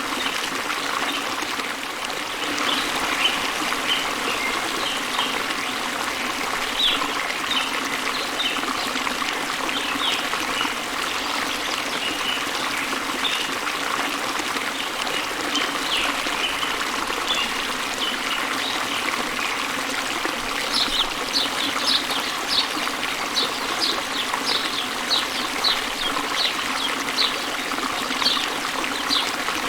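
Small waterfall pouring into a flowing river: a steady rush and trickle of water. Birds chirp over it, with short high chirps scattered at first, then a quick, dense run of chirps over the last third.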